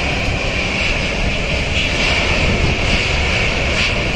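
Airbus A350's Rolls-Royce Trent XWB turbofan engines at takeoff power: a steady, loud rushing jet noise with a bright hiss over a deep rumble.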